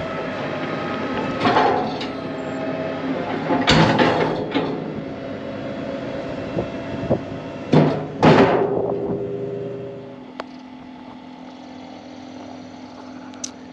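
Farm tractor running steadily while a rock wagon is worked, with several loud metallic bangs and clanks from the wagon box and its chain-held end gate. The running settles quieter about ten seconds in.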